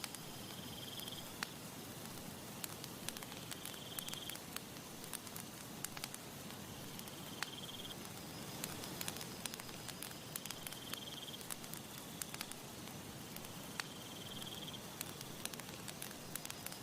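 Campfire crackling, with sharp irregular pops over a steady low hiss. A short, high trill repeats about every three seconds.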